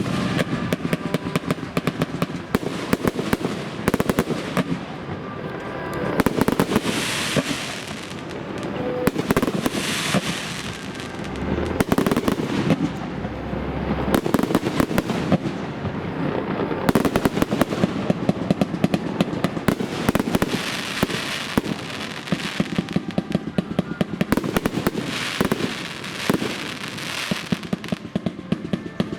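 Fireworks display in a dense, continuous barrage: rapid bangs and crackling with no pause, swelling louder in waves every few seconds.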